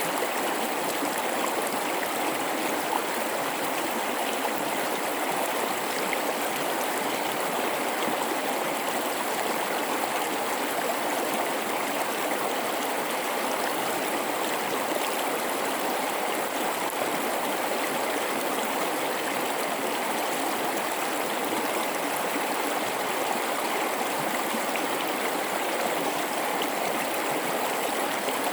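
A river flowing through a rocky gorge: steady rushing and babbling water, even throughout.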